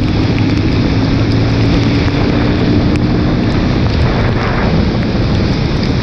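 Motorcycle engine running at a steady pace under loud wind rush on the microphone.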